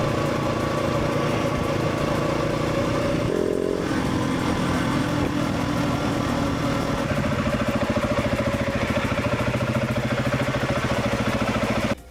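Motorcycle engine running under way, with wind noise; the engine note climbs and then drops sharply about four seconds in. The sound cuts off abruptly near the end.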